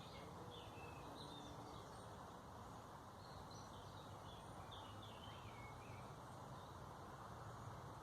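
Faint, scattered bird chirps over a steady low background hum, the chirps thinning out after about six seconds.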